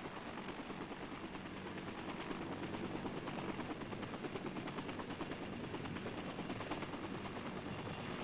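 Helicopters in flight: a steady, rapid beat of rotor blades over engine noise, growing louder about two seconds in.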